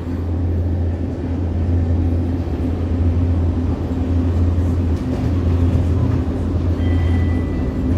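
Hiroshima Electric Railway 650-type tram running, heard from inside the car: a loud, steady low drone of the running gear and wheels on rail. A couple of high thin tones come in near the end.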